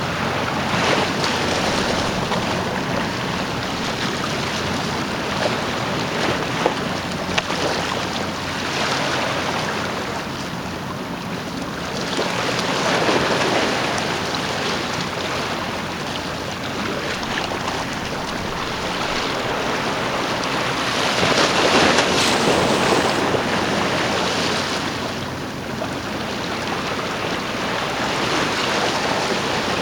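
A jetfoil high-speed boat: rushing water and a steady low engine drone, with wind buffeting the microphone. The rush swells and eases several times, loudest a little after the middle.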